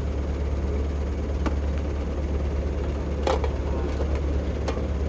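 A motor vehicle engine running steadily with a low hum, with a few short clicks or knocks about one and a half, three and a quarter, and four and three-quarter seconds in.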